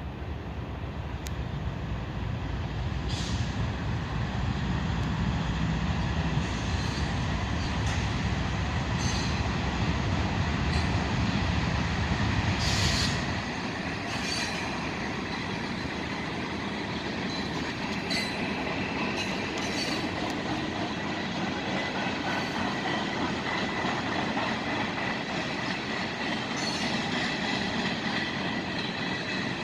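Freight train rolling past: steady rumble of the cars on the rails, with faint wheel squeal and scattered sharp clicks from the wheels. The deep rumble drops off suddenly about 13 seconds in, and the cars keep rolling by after it.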